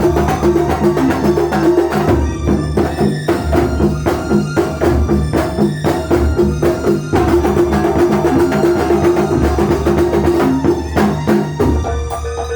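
Kuntulan, the traditional percussion music of Banyuwangi, played live: fast, dense drumming with deep drum thuds under a steady held pitched tone. The pattern thins out near the end.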